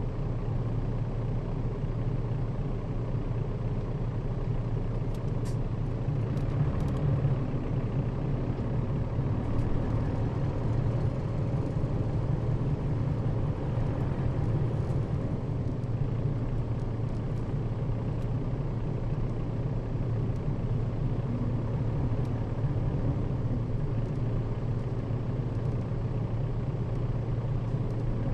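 Nissan Diesel KL-RA552RBN bus on the move: a steady low diesel engine drone with road noise, heard from inside the bus.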